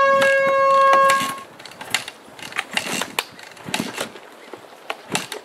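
Air horn blast, a loud steady tone that cuts off about a second in, followed by scattered clicks and knocks.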